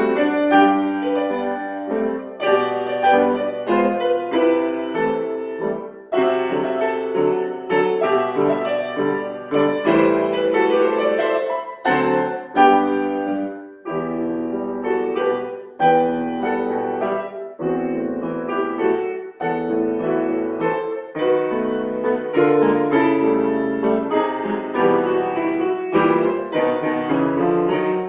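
Solo piano playing a classical piece in phrases of struck notes and chords, with short breaks between phrases.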